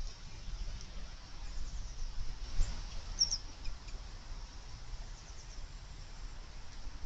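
Faint, high, short bird chirps, the clearest a little after three seconds in, over a low rumbling background noise.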